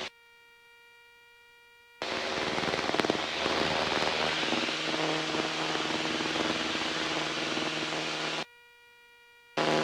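Cockpit radio and intercom audio. A faint steady electronic buzz gives way about two seconds in to a loud hiss of static with a low hum. The hiss cuts off abruptly near the end, leaving the buzz, then cuts back in just before the end.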